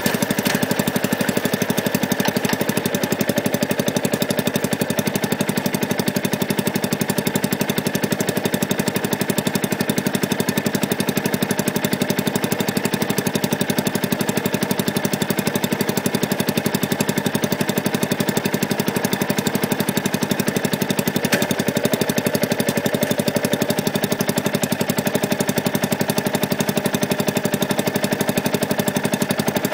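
Yamaha YZF-R125's single-cylinder four-stroke engine idling steadily, its anti-pollution valve removed, heard close up through a microphone fixed under the bike.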